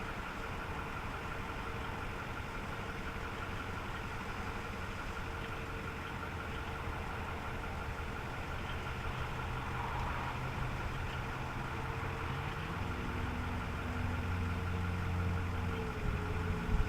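Ford F-550 Super Duty truck engine idling steadily. About twelve seconds in, the pitch of its low hum steps up, as the engine speed rises.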